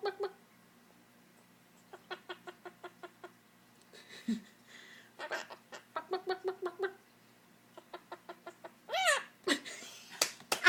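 Pet bird giving runs of quick, clucking calls, about six a second, in two bursts, then a swooping call near the end.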